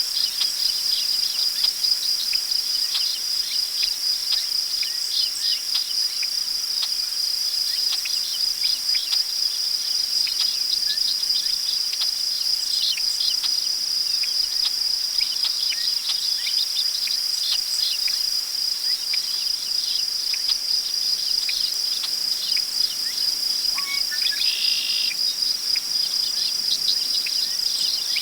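Prairie crickets trilling in one steady, high-pitched drone, with many short chirps scattered through it and a single bird call lasting about a second near the end.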